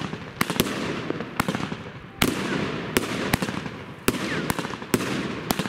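Evolution Fireworks Hexagon consumer fireworks cake firing shot after shot, about two sharp bangs a second. Each bang is trailed by a fading crackle as the stars burst overhead.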